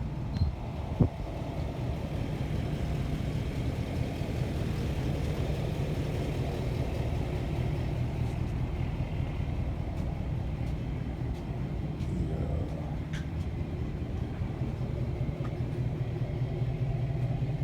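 A motor vehicle's engine running steadily, a low, even sound with a couple of faint clicks over it.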